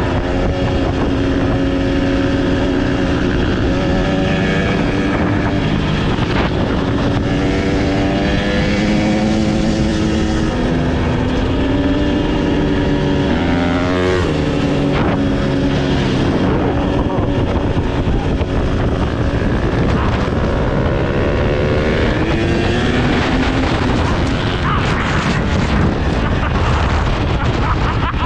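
Dirt bike engine running under load, its pitch rising and falling repeatedly as it revs and changes gear while riding, over a steady rush of wind on the microphone.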